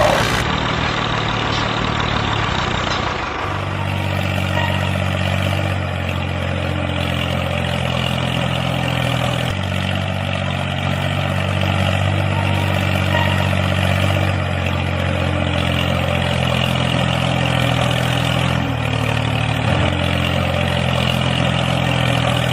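A motor running steadily, with a low hum and a mechanical whirr over it, its pitch shifting a few times as the load changes.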